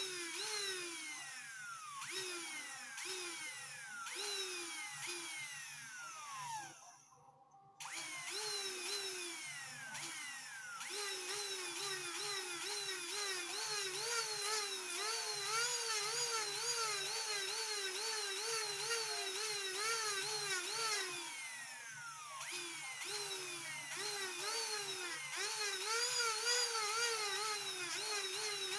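Small high-speed rotary tool, a jeweller's drill, running with its pitch wavering up and down a few times a second as it is worked against the piece. About six seconds in it winds down with a falling whine and stops, then starts up again about a second later.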